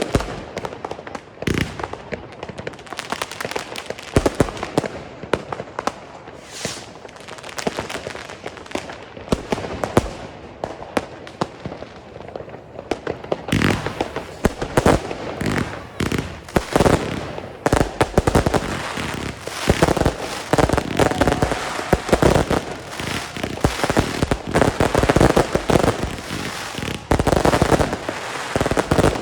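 Consumer fireworks battery (cake) firing: launch thumps and sharp bursts go off one after another, becoming much denser, with crackling, from about halfway through.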